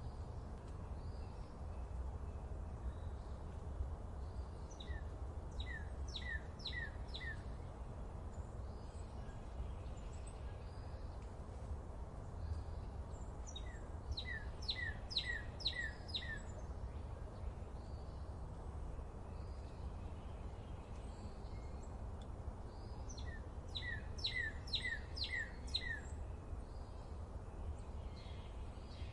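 A songbird sings three short phrases, about nine seconds apart, each a quick run of five or six notes sliding downward. Fainter chirps from other birds and a steady low rumble lie underneath.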